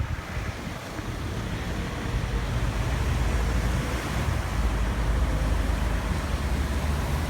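Steady low rumble of city street traffic, growing louder over the first couple of seconds and then holding.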